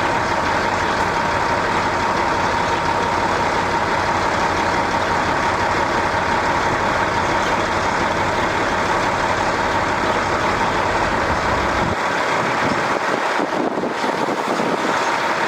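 Steady mechanical drone: an even hiss with a faint steady whine, its low rumble dropping away about twelve seconds in.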